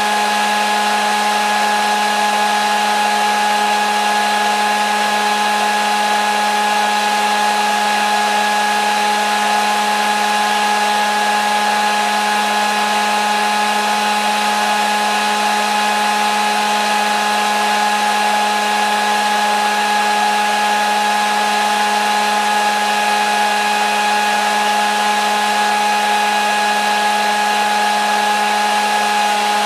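Hair dryer running steadily: a continuous rush of air with a steady motor hum and whine that never changes.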